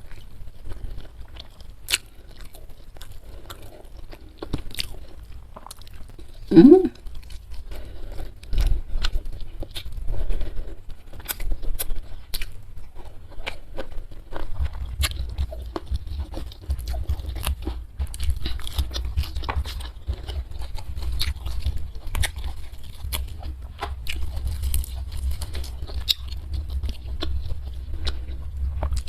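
Close-miked chewing and biting of food, with crunchy bites and many small wet mouth clicks. About seven seconds in comes a brief hum.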